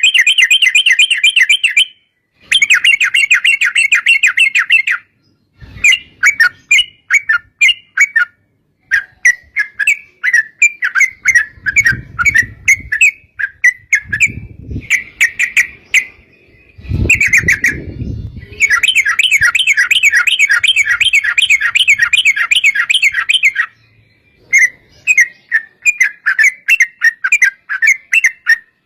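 Yellow-vented bulbuls (trucukan) singing long, fast rolling trills alternating with choppier bubbling notes. A low rumbling noise comes in a few times around the middle.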